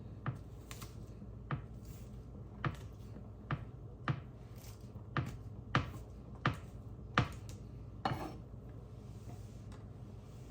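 Garlic cloves being smashed with a kitchen knife on a cutting board: a series of sharp knocks, roughly one a second.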